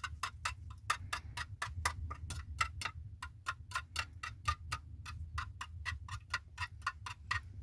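Rapid, fairly even sharp taps or clicks, about five a second, over a steady low hum.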